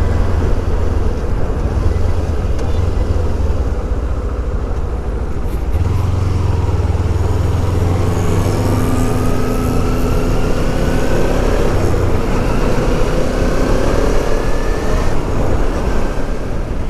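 Kawasaki Ninja 300 parallel-twin engine pulling hard under acceleration, its pitch rising steadily for several seconds from about halfway through, over heavy wind noise on the microphone.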